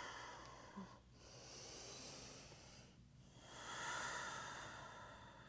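A person's slow, audible breaths close to the microphone, each a soft hissing swell lasting about two seconds, the strongest one starting about three seconds in.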